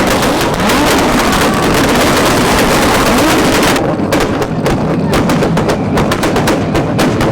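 About a dozen cars revving on two-step launch-control rev limiters at once, a dense rapid crackle of exhaust pops and bangs over the wavering engine note. The crackle turns duller about four seconds in.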